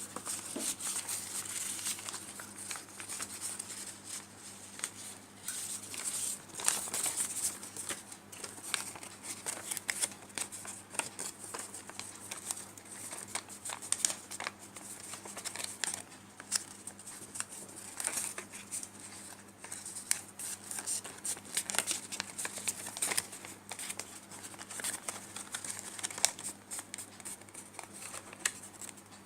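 A sheet of paper rustling and crinkling as it is folded and creased by hand into an origami crane, with irregular short crackles and taps throughout.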